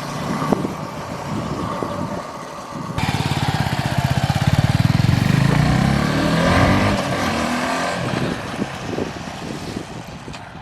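Motorcycle engine under throttle: it grows louder about three seconds in, its note rising as the bike accelerates, then fades away as the bike rides off.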